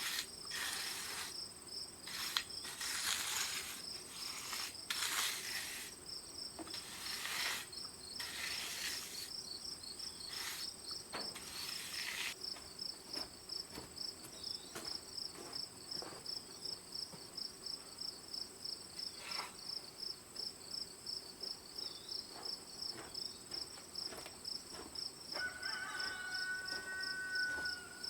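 Crickets or similar insects trilling steadily in a high, pulsing chirp. Several short rushes of noise come and go in the first half, and a brief whistle-like tone sounds near the end.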